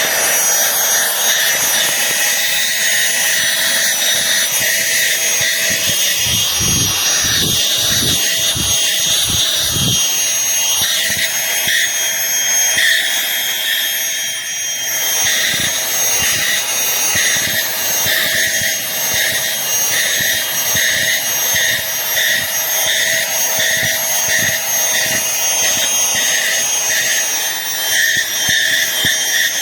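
A cordless handheld vacuum cleaner running, its motor giving a steady high whine over a rush of airflow. A series of low knocks comes about six to ten seconds in, and later part of the sound pulses regularly.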